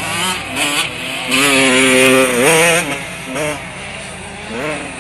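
Motocross dirt bike engines revving, one loudest about a second and a half in, holding a high pitch and then dropping off sharply near three seconds. Shorter rises in revs follow twice.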